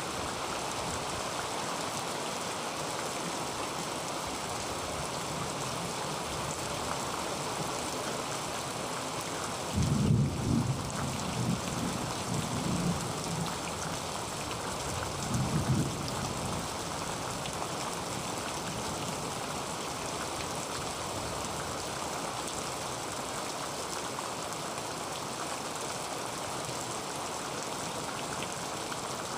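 Heavy rain drumming steadily on a tin roof. Low thunder rumbles about ten seconds in for a few seconds, and again, more briefly, a few seconds later.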